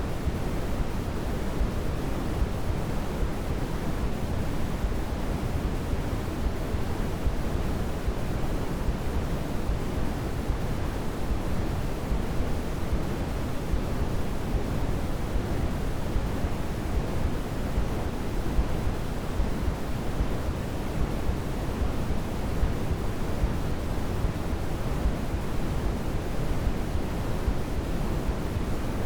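Steady electronic sleep-aid noise for babies, a constant hiss weighted toward the deep end like pink noise, with no swells or breaks.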